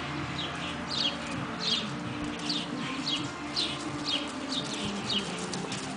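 Small birds chirping over and over, short quick falling chirps at about two a second.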